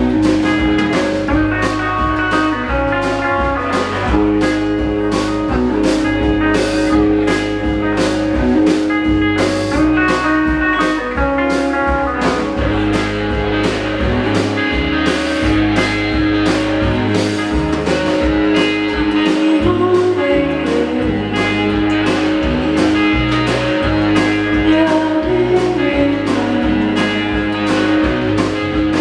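A live blues-rock band playing: electric guitar over a steady drum beat, with singing.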